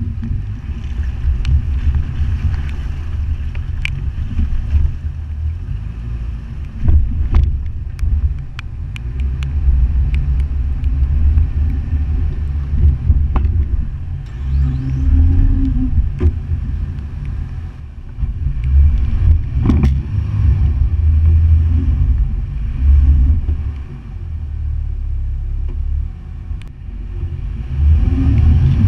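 Toyota FJ Cruiser driving through a river crossing: a low, surging rumble of the vehicle and water, broken by scattered sharp knocks and clicks.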